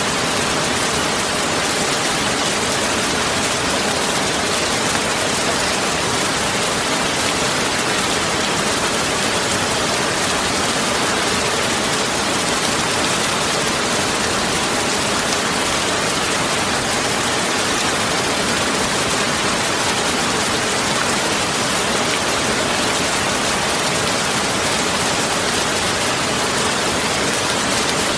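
Heavy rain falling steadily, an even hiss of rain with no thunder and no change in strength.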